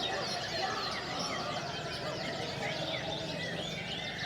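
Many canaries singing at once: a dense, continuous mass of overlapping quick chirps and trills, over a background murmur of crowd chatter.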